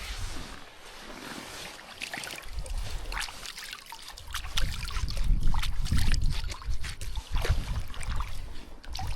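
River water splashing and trickling close by in quick irregular spatters, with uneven low rumbles underneath.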